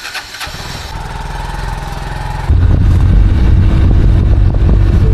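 A motor vehicle engine running close by, a steady rumble that gets much louder about two and a half seconds in.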